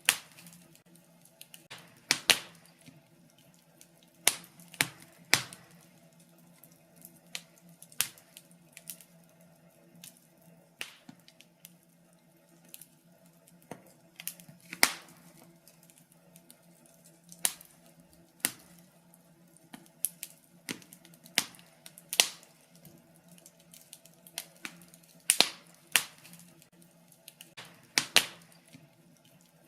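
Wood fire crackling in a fireplace: irregular sharp pops and snaps, roughly one every second or two, over a faint steady low hum.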